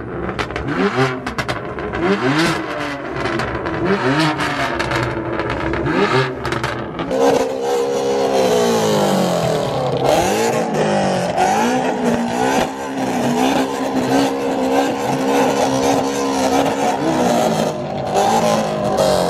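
Ford Mustang engine revved in a string of quick blips, then held at high revs for about ten seconds over a loud hiss as the tyres spin in a burnout.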